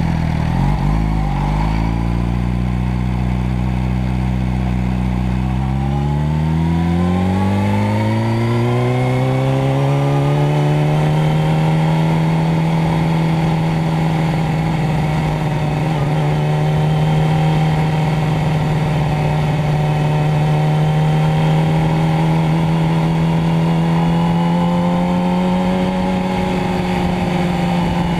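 Motorcycle engine running at low revs, then speeding up about six seconds in, its pitch climbing for about five seconds before it holds steady at higher revs.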